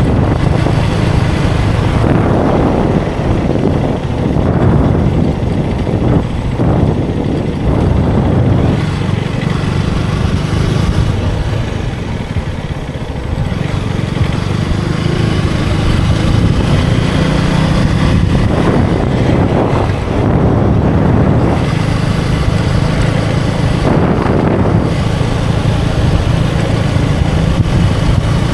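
KTM Duke 250 Gen3 motorcycle's single-cylinder engine running steadily under way, with wind rushing over the microphone that swells several times.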